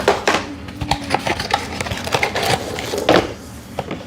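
Irregular clicks, taps and rustles of a cardboard toy box and its packaging being handled and pulled open, with a louder knock about three seconds in.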